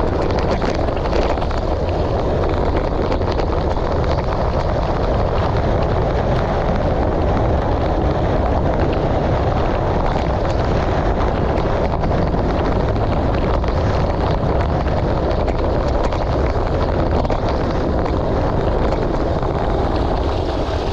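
Steady wind rushing over the microphone with a constant low rumble, as from riding over a gravel road.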